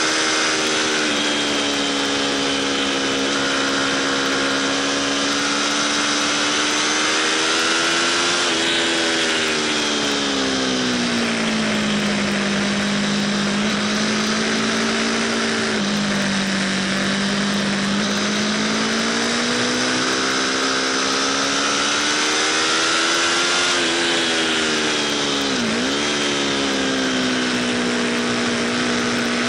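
Aprilia RSV4 Factory's V4 engine at speed on track, its note rising and falling with throttle and gear changes, with a quick dip in pitch near the end. Wind rushes steadily over the fairing.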